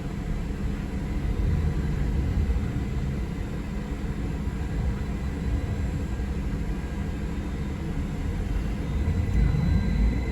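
Steady low rumble inside a moving city transit vehicle. A rising whine begins near the end, as the vehicle speeds up.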